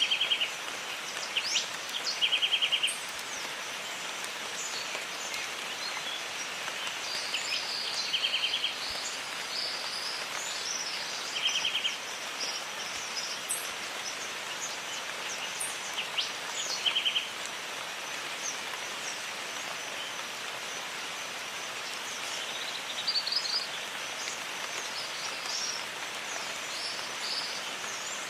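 Steady rainfall hissing over a jungle, with birds calling over it: short, fast rattling trills repeat every few seconds, and scattered higher chirps come in between.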